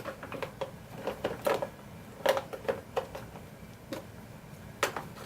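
Irregular plastic clicks and knocks from a Fisher-Price Space Saver high chair being handled as its harness is buckled, with the loudest knocks about a second and a half in, at two and a quarter seconds and near the end.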